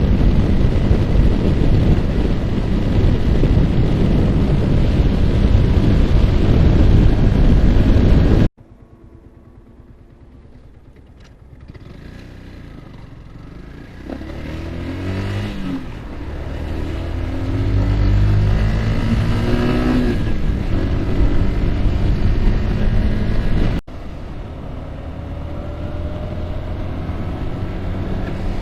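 Yamaha R15's single-cylinder engine and wind rushing over the microphone at riding speed. Loud steady wind noise gives way abruptly at about a third of the way in to a quieter stretch where the engine is heard accelerating, its pitch rising several times, then the wind noise returns abruptly near the end.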